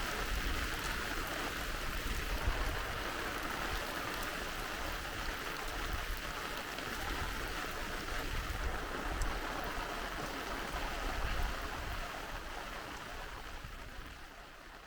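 Rain falling together with a rushing valley stream, a steady hiss that fades down over the last few seconds.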